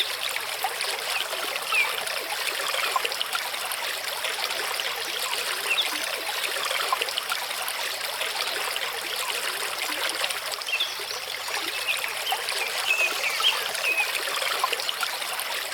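Mountain stream running over rocks: steady trickling and rushing water.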